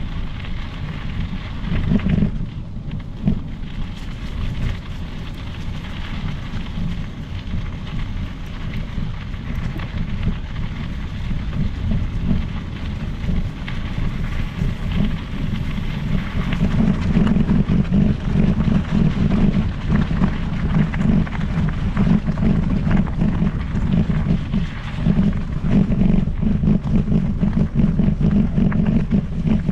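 Wind buffeting the microphone of a moving bicycle: a heavy, steady low rumble, louder from a little past halfway.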